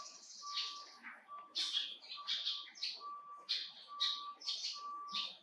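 Bird chirping: a quick series of short, high chirps, over a short steady note that repeats about twice a second.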